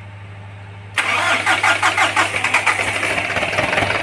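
Electric starter cranking the rebuilt Kubota M9540 tractor diesel, cutting in suddenly about a second in with fast, even strokes as the engine turns over on a freshly bled fuel system without yet catching.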